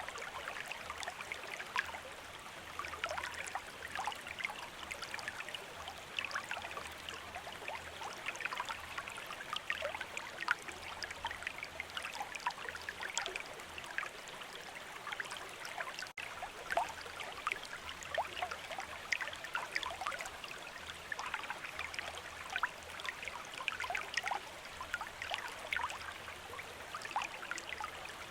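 A stream of running water babbling steadily, with many small splashes and trickles. There is a momentary dropout about sixteen seconds in.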